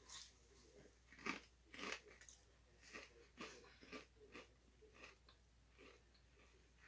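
Potato chips being chewed: a run of quiet, irregular crunches, about one or two a second.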